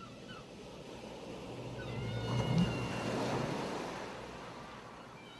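Surf washing onto the shore: a wave swells to a peak about three seconds in and then fades away. Short high calls of seagulls sound near the start and again faintly as the wave builds.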